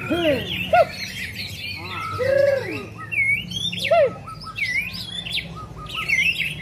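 Several caged songbirds singing at once: overlapping whistled phrases, trills and chirps at many pitches, over a steady low hum.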